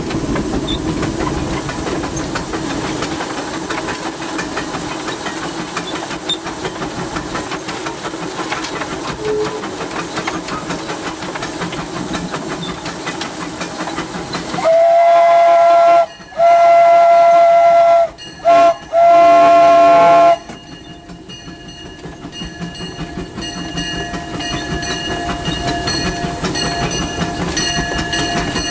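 Narrow-gauge, oil-fired steam locomotive running, heard from inside its cab as a steady mechanical running noise. About halfway through, its steam whistle sounds four loud blasts, long, long, short, long, which is the standard grade-crossing signal.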